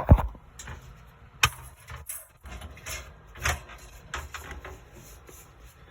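A handful of sharp knocks and clicks, the loudest right at the start, with quieter ones spread through the rest.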